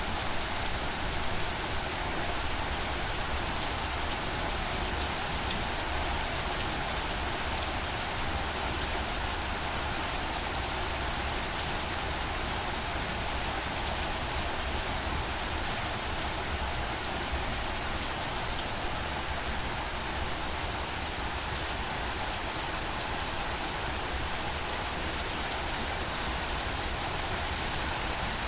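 Steady rain falling, an even hiss with many fine drop patters on a surface.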